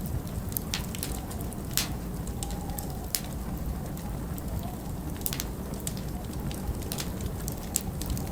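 Log fire crackling in a stone fireplace, with sharp irregular pops about once a second, over a steady low rumble of winter wind.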